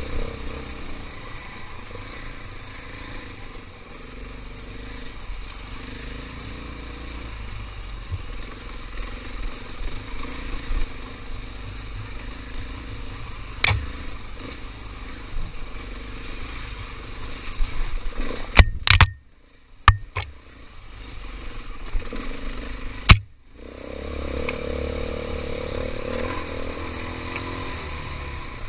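KTM 500 EXC single-cylinder four-stroke dirt bike engine running and revving up and down over a rough trail, with several sharp knocks in the second half. The sound drops away almost to nothing twice, briefly.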